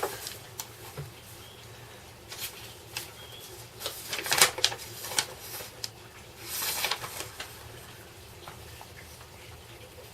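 Paper pages of an instruction booklet being leafed through: a handful of short rustles and flaps, the longest about two-thirds of the way in.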